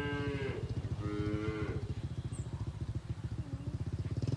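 Cattle mooing: one moo ends just after the start and a second, shorter moo follows about a second in. A steady low engine-like rumble runs underneath.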